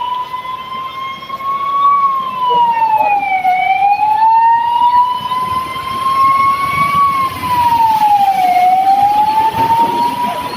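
Emergency vehicle siren in a slow wail, its pitch climbing gradually and then dropping back, repeating every few seconds.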